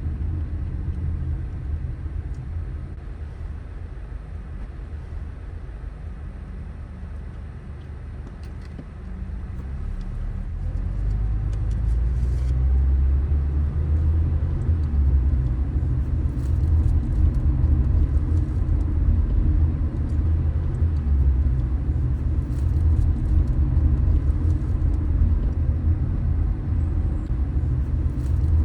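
Car driving on city streets, a steady low road and engine rumble heard from the car; it eases off briefly, then grows louder about a third of the way in as the car picks up speed and holds there.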